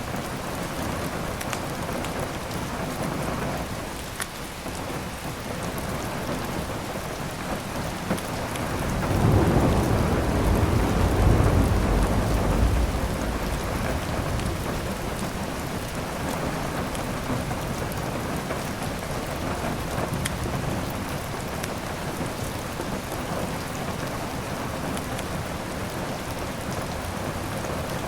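Steady heavy rain, with a roll of thunder that swells up about nine seconds in and fades away by about thirteen seconds.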